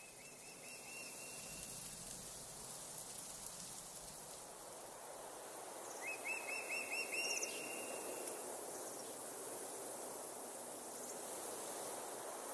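Outdoor ambience with a steady hiss, and a bird calling: one short call near the start, then a run of about six quick rising chirps about six seconds in.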